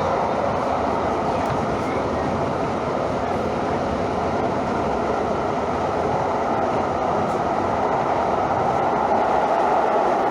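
Steady running noise of a train in motion, an even wash of sound with no distinct clicks or changes.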